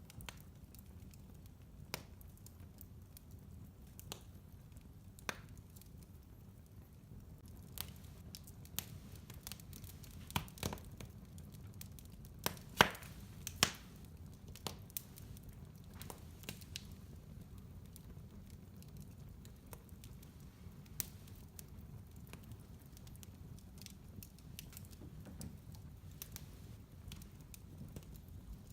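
Wood fire burning in a fireplace: a low steady rumble of the flames with irregular crackles and sharp pops of the burning logs, a flurry of louder pops about halfway through.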